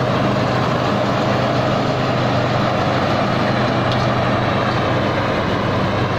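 Tai Seng rice combine harvester's diesel engine running steadily with a low, even hum as the machine harvests through a muddy paddy.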